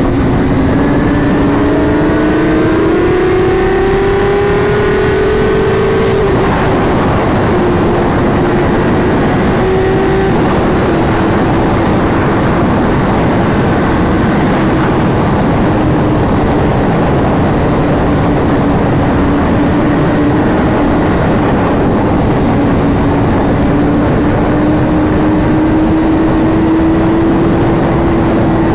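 A sport motorcycle engine under way with heavy wind noise. The engine note climbs for the first several seconds, drops back with a gear change about six seconds in, then holds a steady cruise.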